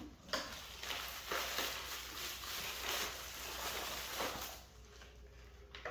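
Rustling of packaging with a few light knocks as parts are handled, from just after the start until it fades about four and a half seconds in.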